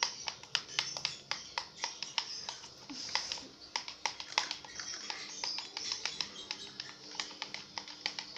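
Stirring utensil clicking and tapping irregularly against a container while glue and water are stirred together for slime, several clicks a second.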